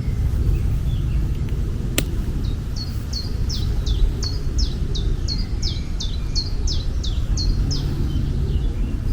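A small bird singing a quick run of about fifteen high, repeated chirps, each sweeping downward, lasting about five seconds, over a steady low outdoor rumble. A single sharp click comes just before the song starts.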